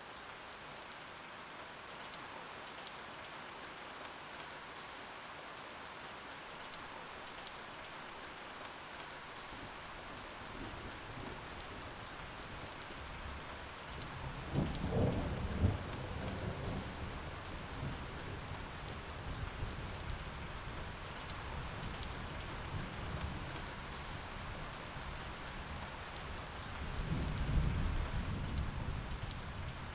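Steady rain falling, with thunder rumbling in over it about a third of the way in and swelling twice, once midway and again louder near the end.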